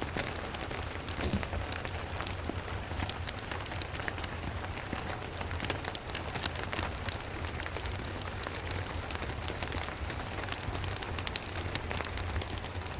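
Steady rain falling, with many short sharp crackles and ticks of a wood fire mixed in, over a constant low rumble.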